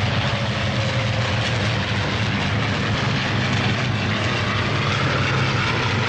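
A formation of about ten P-51 Mustangs flying past, their V-12 piston engines combining into one steady, loud, deep drone.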